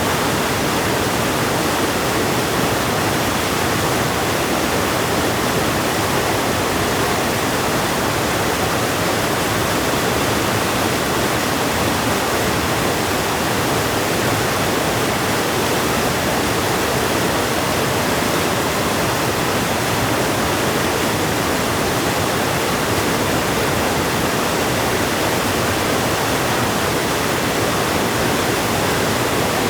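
River water rushing and churning in a steady, unbroken roar of noise.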